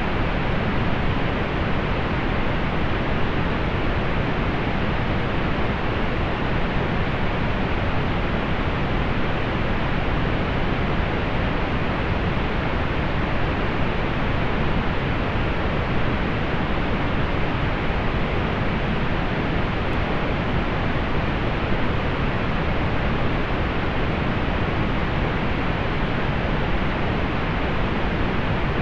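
Steady pink noise: an even, unchanging hiss with its energy weighted toward the low end and softened above about 4 kHz.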